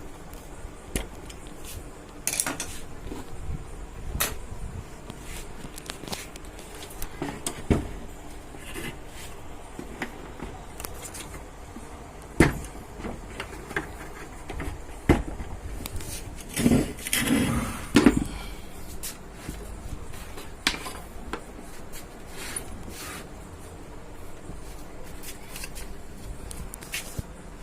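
Hands working on an amplifier on the bench: scattered clicks, knocks and light rattles of tools and parts being handled, with a louder run of knocks about two-thirds of the way through.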